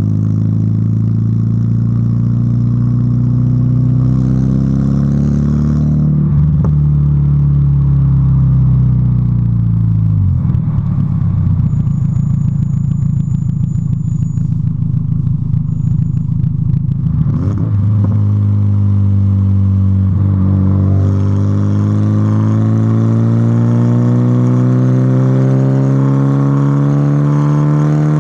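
VW Golf Mk3 engine and exhaust, running without catalytic converter or intermediate muffler through a sport rear muffler, as the car accelerates through the gears: the note climbs in long pulls and drops back at each shift, about six seconds in, around seventeen seconds in and at the very end. In between, from about ten to seventeen seconds in, it holds a lower, rougher, steady drone.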